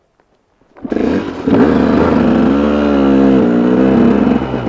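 Pickup truck engine running while driving, cutting in suddenly about a second in, its pitch wavering up and down as the engine speed changes.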